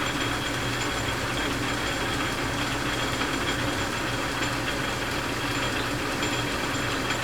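Metal lathe running steadily, spinning a roller between centers on a faceplate and lathe dog, with a steady hum and a faint high whine. The roller was turned off-center, so one end wobbles as it turns.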